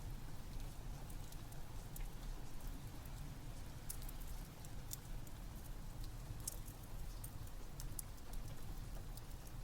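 Steady rain with a low rumble under it, and a fireplace's wood fire crackling with scattered sharp pops.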